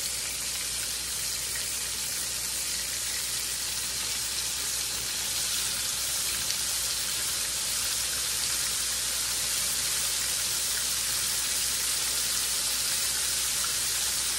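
Flour-coated hamburger steaks frying in shallow hot grease in a skillet: a steady, even sizzle that grows slightly louder as more patties go into the pan.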